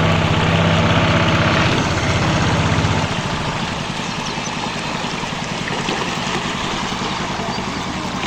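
Motorboat engine running steadily over the rush of fast floodwater. It is loud for about the first three seconds, then drops off to a quieter running.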